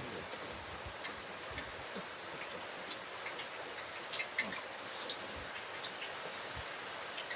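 Steady high-pitched chorus of insects over the even rush of a mountain stream, with scattered small crackles.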